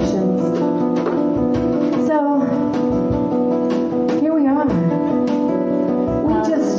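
Live band music led by guitar, with plucked notes over sustained chords and a voice-like melody that bends in pitch.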